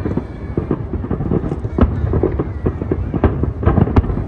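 Aerial fireworks going off: a dense run of bangs and crackling pops over a low rumble, the bursts coming thicker near the end.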